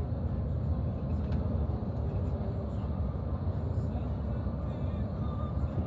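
Steady low rumble of a vehicle in motion, heard from inside, with faint voices in the background.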